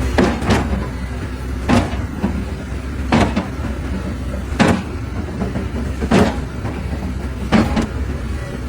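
Sharp knocks repeating about once every second and a half over a steady low rumble.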